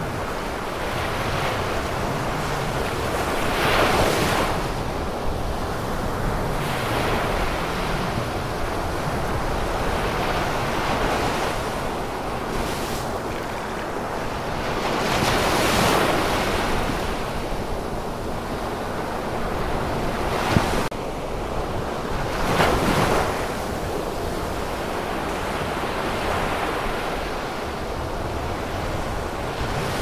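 Sea waves breaking and washing in: a continuous rush that swells with each wave, about four seconds in, around sixteen seconds and again around twenty-three. A short sharp click comes just before the last swell.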